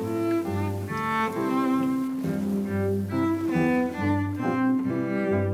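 Background music: a slow bowed-string piece with low, held cello-like notes that change every second or so.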